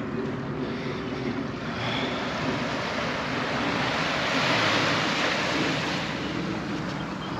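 Ocean surf washing onto a sandy beach, a steady rush that swells to its loudest around the middle as a wave breaks and then eases off.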